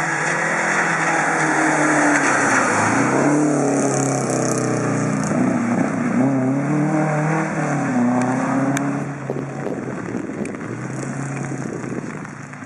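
Rally car engine revving hard through several gear changes, its pitch climbing and dropping again and again as the car drives by. It fades about nine and a half seconds in.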